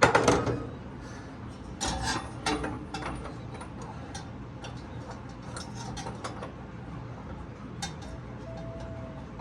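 Metal hand tools clicking and clanking in irregular taps as a seized 1963 Thunderbird engine is worked by hand to try to turn it. There is a sharp clank at the start and a cluster of clicks a couple of seconds in. The engine is stuck.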